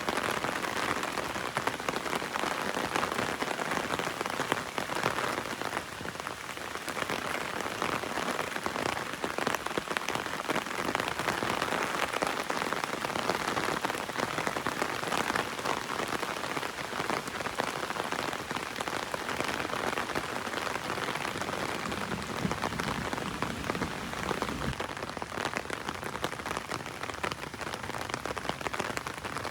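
Heavy rain drumming on an umbrella overhead in a dense, steady patter of drops.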